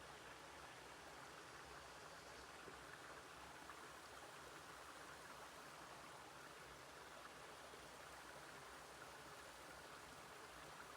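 Near silence: a faint, steady hiss of outdoor ambience.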